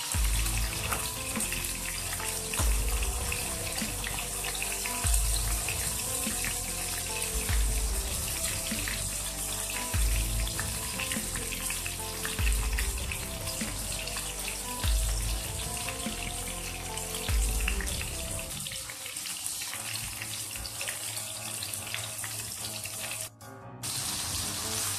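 Chopped tomatoes frying in hot oil in a pan, a steady sizzle, under background music with a low bass pulse about every two and a half seconds.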